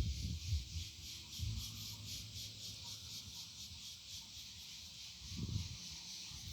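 A steady, high-pitched chorus of insects, pulsing several times a second, with low rumbles on the microphone, one of them about five seconds in.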